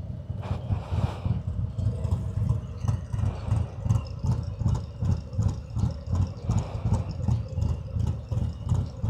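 Harley-Davidson Road King's air-cooled Milwaukee-Eight V-twin idling, a low beat pulsing about three times a second.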